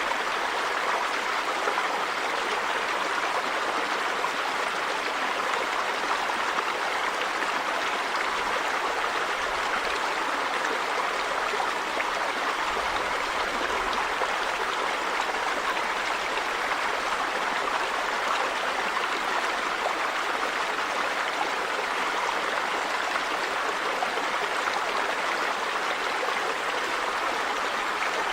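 River water running over stones, a steady rushing with fine gurgling detail.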